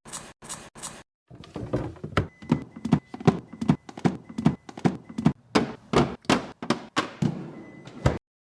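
A quick run of knocks and clunks, about two or three a second, as containers and food items are handled and set down while organizing a refrigerator. The sound cuts off suddenly near the end.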